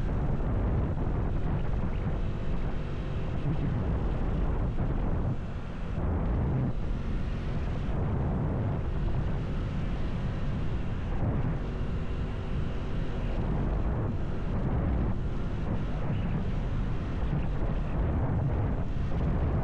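Heavy wind rumble on the microphone of a moving motorcycle, with the motorcycle's engine running steadily underneath.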